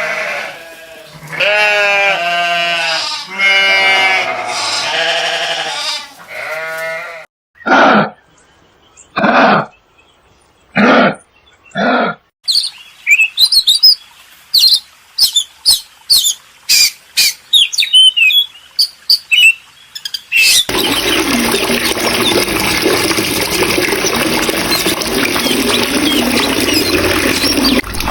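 A run of farm-animal sounds. First come goats bleating, several long wavering calls over about seven seconds. Then come four short separate calls, a quick run of chirps and clicks, and from about two-thirds of the way through a steady rushing noise.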